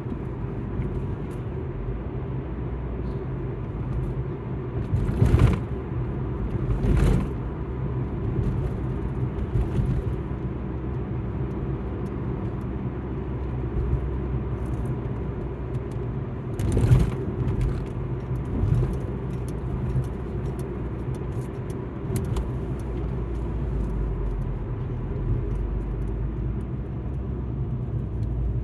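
Alfa Romeo MiTo being driven: steady engine and road rumble, with a few brief louder surges about five, seven and seventeen seconds in.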